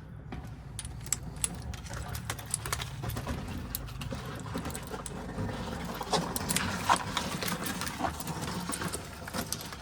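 Small metal lock parts being worked on a Ford lock cylinder during rekeying: many short, sharp clicks and taps, busier in the second half, over a low steady hum.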